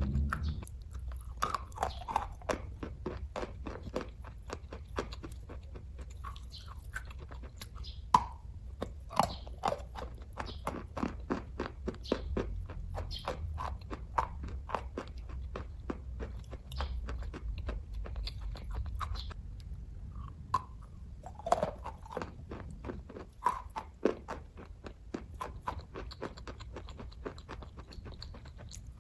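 A person chewing kaju katli (cashew fudge) close to the microphone: a steady run of small wet mouth clicks, with a few louder bites.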